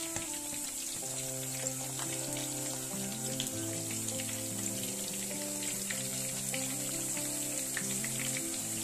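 Zucchini slices frying in hot oil in a pan: a steady sizzle full of fine crackles. Slow background music with held notes plays underneath.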